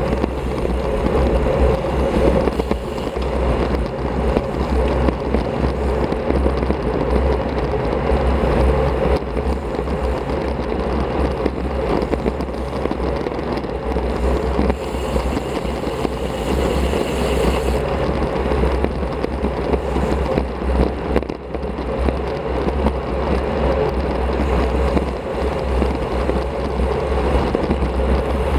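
Steady rush of wind buffeting an action camera's microphone, with the road bike's tyres rolling over the pavement while riding at speed.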